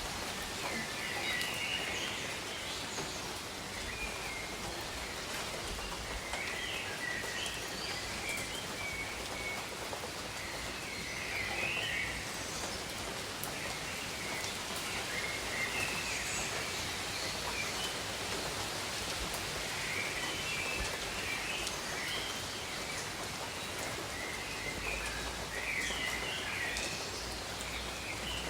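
Steady rain falling, with birds calling intermittently every few seconds over it.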